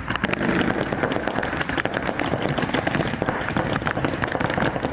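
Paintball markers firing: a dense, irregular run of sharp pops over steady background noise.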